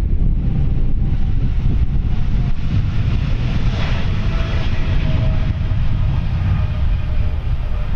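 Boeing 777-300ER's GE90-115B jet engines running with a deep, steady rumble, a faint engine whine coming up about four seconds in.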